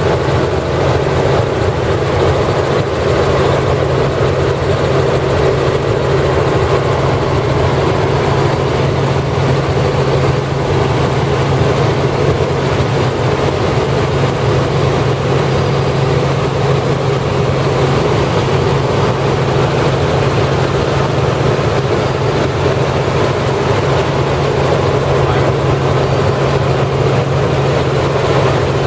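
Helicopter turbine engine and rotor running in flight: a loud, steady drone that does not change.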